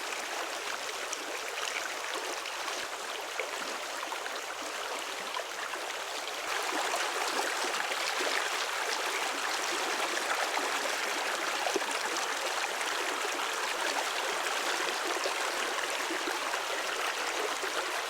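Steady rush of running water, a little louder from about six and a half seconds in, cutting off abruptly at the end.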